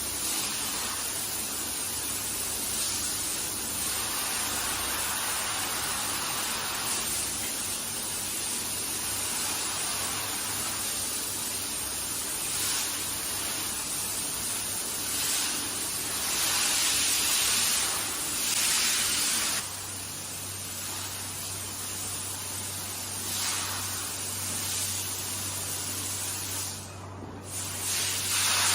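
Hand-held car wash sprayer spraying water onto a carpet: a steady hiss that swells and eases as the spray moves, with a low hum underneath. It breaks off briefly near the end.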